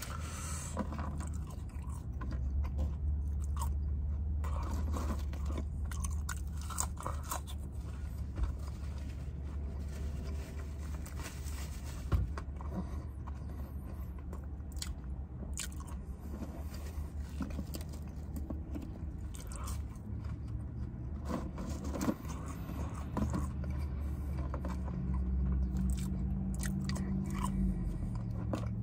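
Close-up chewing and biting of McDonald's French fries and chicken nuggets, with wet mouth sounds and many small clicks, over a steady low hum.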